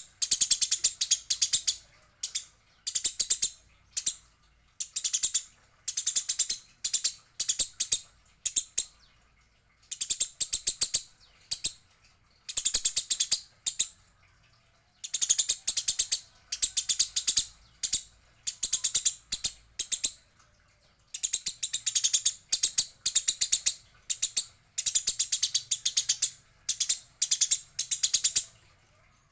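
Eurasian tree sparrows chattering: dense bursts of rapid, sharp chirps, each burst lasting about a second, separated by short pauses. This is the agitated 'fighting' chatter that is played as a lure for sparrows.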